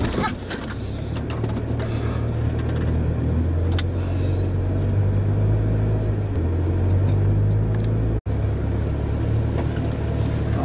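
A Land Rover's engine running steadily, heard from inside the cab while driving over a rough dirt track, with knocks and rattles from the body over bumps. The engine note steps to a different pitch about six seconds in, and the sound drops out for an instant a little after eight seconds.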